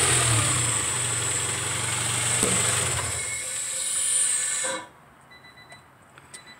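1995 Honda Prelude engine running, with a loud steady hissing rush over a low engine hum; the hum fades about three seconds in and the whole sound cuts off abruptly near five seconds, leaving a quiet stretch with a few faint clicks.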